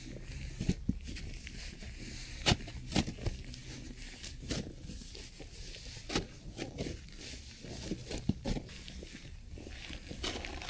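Irregular crunches and clicks, a dozen or so scattered unevenly, over a faint steady low hum.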